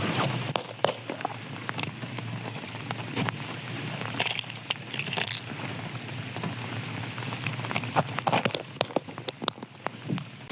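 Rain pattering steadily on close surfaces, with many scattered sharp clicks and crinkles, a cluster of them about eight to nine seconds in.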